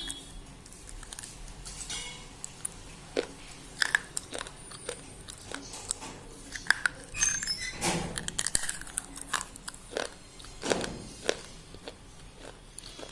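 Thick white slate pencil being bitten and chewed: irregular sharp crunches and crackles, densest about eight seconds in.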